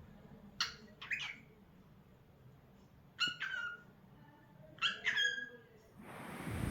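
Lutino cockatiel giving short whistled chirps in quick pairs, four times. Near the end a rush of noise swells up.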